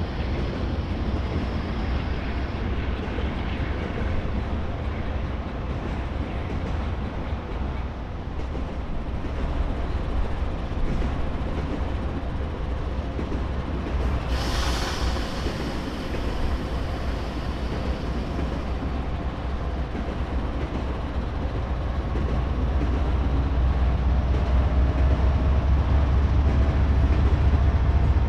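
Freight train rolling past on the BNSF main line: a steady low rumble of railcar wheels on the rails, with a brief hiss about halfway through, growing louder near the end.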